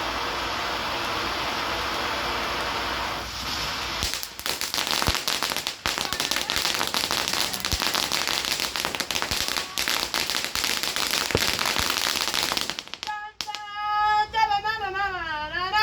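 Consumer firework going off: a steady hiss for about three seconds, then dense, fast crackling for about nine seconds that stops suddenly. Near the end a child's high, sing-song voice.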